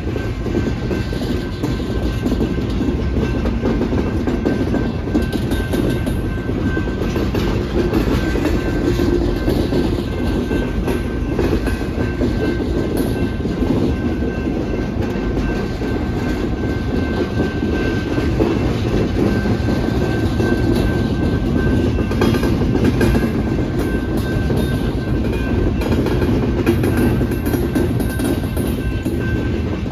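A freight train of loaded open-top aggregate cars rolling steadily past a grade crossing: a continuous rumble and clatter of steel wheels on rail, with a thin steady high tone running under it.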